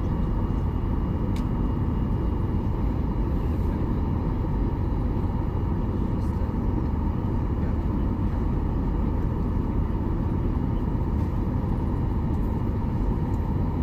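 Steady low rumble of vehicle travel noise, even in level throughout.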